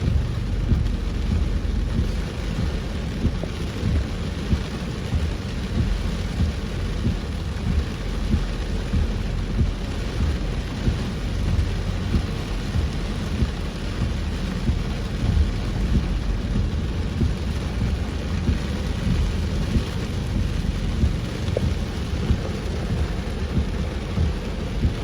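Heavy rain pelting a moving vehicle: a dense, steady rush with a deep rumble, sprinkled with many small sharp hits of drops striking.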